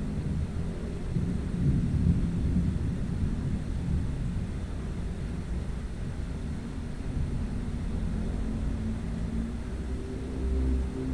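Thunder rumbling, low and continuous, swelling about two seconds in. A few steady low tones come in near the end.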